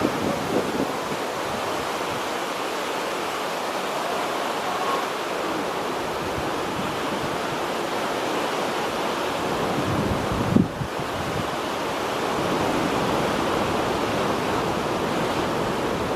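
Wind and choppy sea waves: a steady rushing wash with wind buffeting the microphone. A brief thump about ten and a half seconds in.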